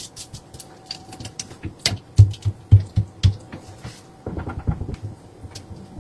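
Food preparation handling sounds: scattered clicks and knocks, then a run of five dull thumps about two seconds in, a few each second, and a brief rustle near the end.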